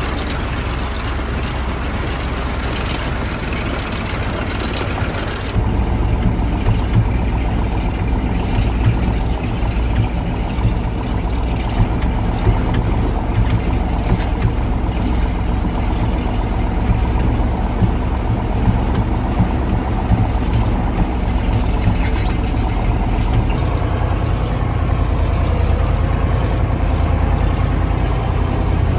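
1985 KAMAZ 4310 6x6 truck's V8 diesel engine running steadily under way off-road. The sound turns abruptly deeper and duller about five seconds in, and brighter again with about five seconds left.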